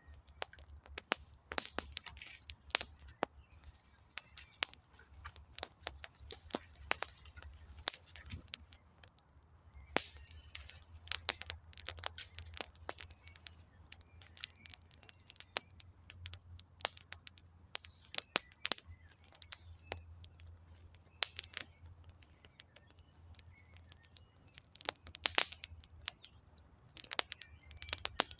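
Wood campfire burning, the logs crackling and popping in sharp irregular snaps over a steady low rumble.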